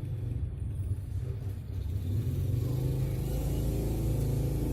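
Low, steady engine rumble, like a motor vehicle running nearby, growing somewhat louder from about two seconds in.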